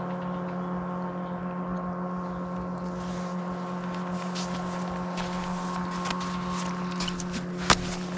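A boat engine running at a steady, unchanging pitch. A single sharp click comes near the end.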